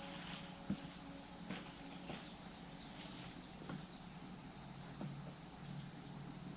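Insects, likely crickets, chirring steadily at a high pitch, with a few faint clicks.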